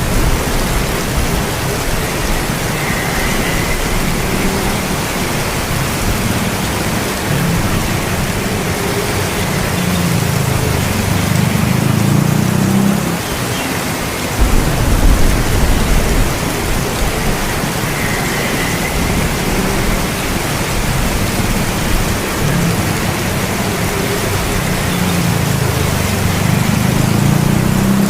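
Steady heavy rain with rolling thunder. A deep rumble swells toward the middle and breaks into a louder burst a little past halfway, and another rumble builds near the end.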